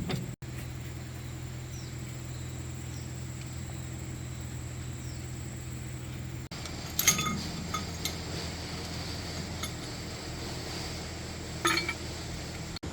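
Metal tools clinking against metal parts: a quick cluster of sharp, ringing clinks about seven seconds in and another near the end, over a steady low hum.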